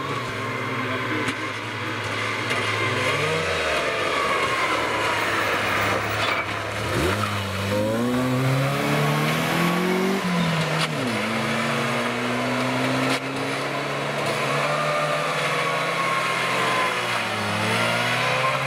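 Trabant rally car's engine revving hard. The pitch climbs and drops repeatedly as it comes up through the gears, slows for a tight bend about ten seconds in, then pulls away again under full throttle.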